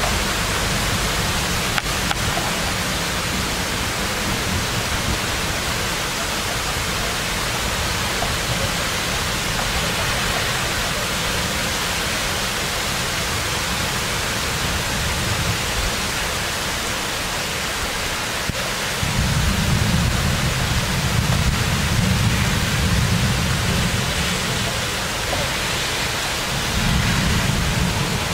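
Heavy rain hissing steadily during a thunderstorm, with a stronger low rumble swelling about two-thirds of the way in and briefly again near the end.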